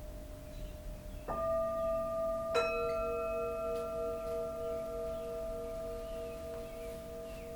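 Two singing bowls struck one after the other, a little over a second apart, each ringing on in long, steady, overlapping tones over a lower tone already sounding.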